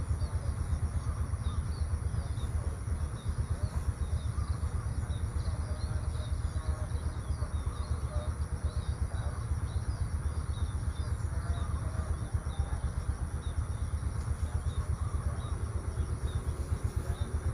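Outdoor country ambience: a steady low rumble with a rapid flutter, over a constant high hiss, with birds chirping faintly throughout.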